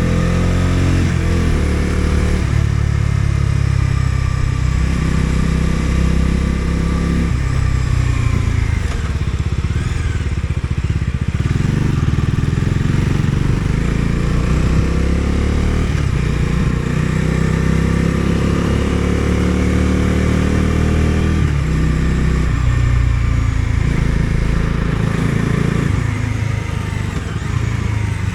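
Bajaj Dominar 250's single-cylinder engine pulling under way, its note climbing and dropping again and again as the rider works through gear changes, over a steady rush of wind and road noise.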